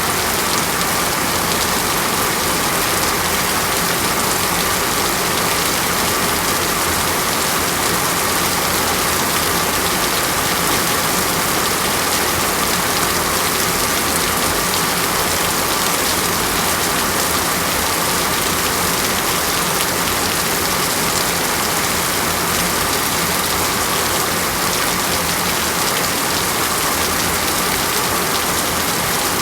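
Steady rain falling on a surface: a dense, even hiss that does not let up.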